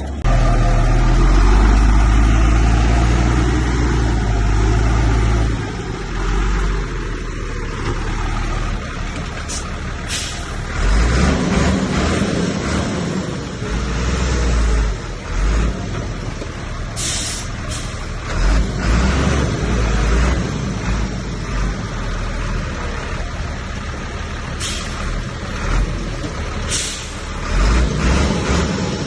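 Heavy diesel earthmoving machinery, a bulldozer at work, running under load. The deep engine rumble rises and falls, and there are several short hisses.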